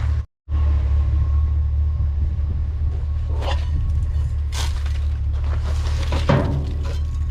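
A steady low rumble, cut off briefly just after the start, with a few short clatters and knocks around the middle.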